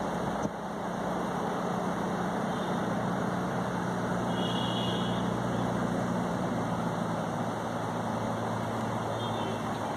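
Diesel locomotive hauling a long passenger train, heard from afar as a steady low engine drone over a rumbling haze.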